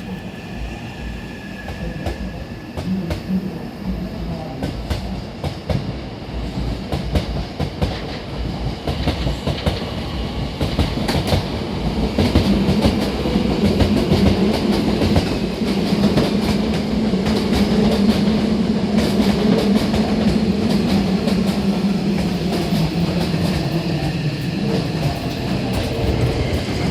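Hankyu 9000 series electric train pulling out, its wheels clattering over rail joints in quick clicks. The sound grows louder over the first dozen seconds as the cars gather speed past, then stays loud with a steady low hum.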